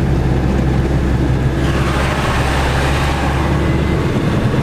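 Iveco Daily camper van's diesel engine running under way, with road noise, heard from inside the cab. The low engine note drops away about four seconds in.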